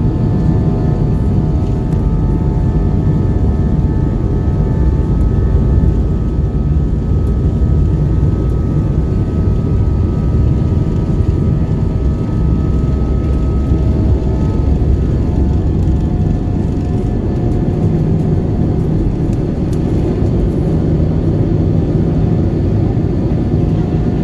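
Cabin noise inside an Airbus A320: a steady, loud low rumble of the jet engines and airflow, with several steady whining tones over it.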